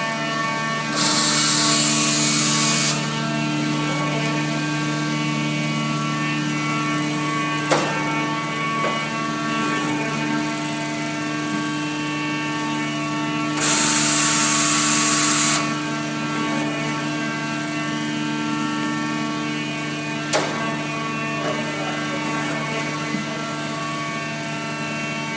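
Peddinghaus CNC sawing and drilling line running: a steady machine hum with many even tones. Twice a loud hiss lasts about two seconds, and two sharp knocks stand out between them.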